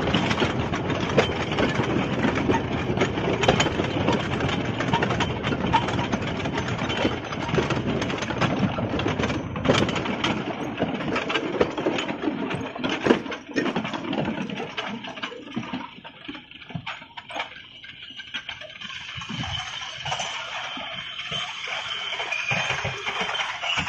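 12-ton explosion-proof mining battery locomotive running on rails with its wagons: a dense rumble and clatter of wheels and couplings. After about 14 seconds it dies down and grows sparser, and a steady high whine comes in over the last few seconds.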